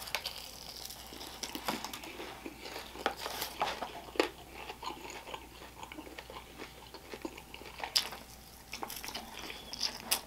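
A person chewing a whole fried chicken wing taken in one bite, heard up close: soft, irregular crunches and clicks as the coated meat is eaten off the bone, with a sharper click about eight seconds in.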